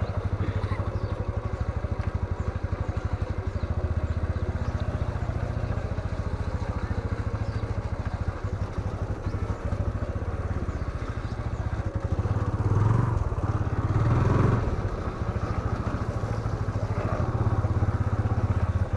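Motorcycle engine running steadily as the bike is ridden, a low rapid pulsing that swells twice about two-thirds of the way through as it picks up speed.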